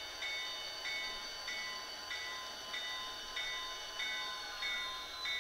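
Simulated diesel locomotive bell from the SoundTraxx Tsunami2 sound decoder in an HO scale Athearn Genesys GP40-2 model, ringing steadily at a little under two strokes a second over a faint steady hum.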